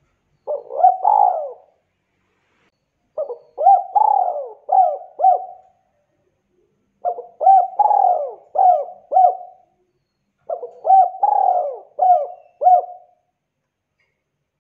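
Spotted dove (tekukur) cooing. It gives four phrases, one every three to four seconds, each a quick run of three to five short notes that rise and fall.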